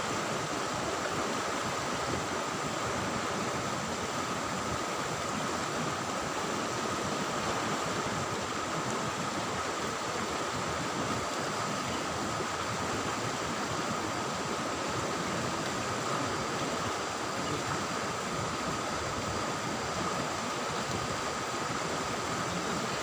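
Steady rushing of flowing river water, unchanging throughout, with a thin steady high tone above it.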